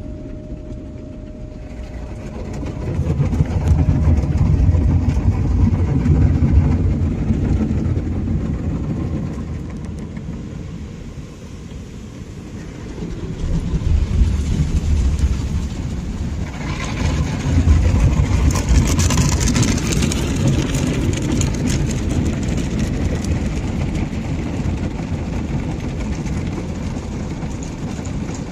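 Ryko SoftGloss MAXX soft-touch automatic car wash running: a deep rumble that swells about two seconds in, eases off around eleven seconds and builds again, with a loud hissing rush added for a few seconds near the middle.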